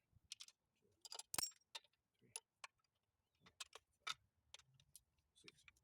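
Scattered sharp metallic clicks and clinks, irregularly spaced and loudest about a second and a half in, from hand tools working the bolts on the rear cover of a Ford M5R1 five-speed transmission.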